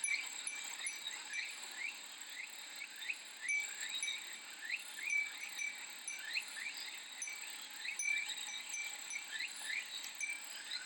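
Japanese furin wind chime tinkling in short rings over a steady, high-pitched drone of summer cicadas. Many short sliding chirps run through it.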